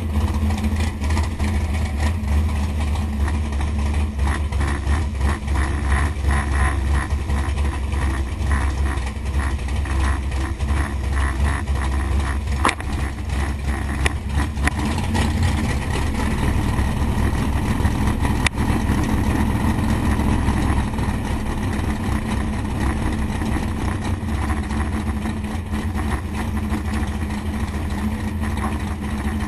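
468 cubic-inch big-block Chevy V8 idling steadily at low revs, with no revving up.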